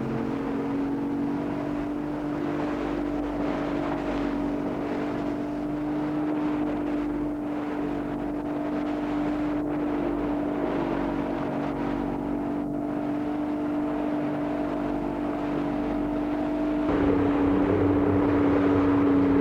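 A boat's motor running at a steady pitch, over wind and water noise; about seventeen seconds in it gets louder and deeper.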